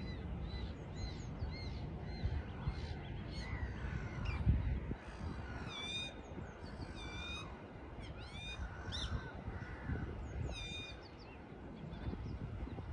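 Birds calling in the morning: crows cawing among many short, repeated chirps from smaller birds, over a low steady rumble that swells about four and a half seconds in.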